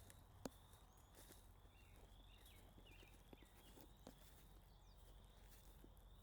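Faint footsteps on the ground, with a sharper step or snap about half a second in, and a bird's short chirps repeating about one and a half times a second.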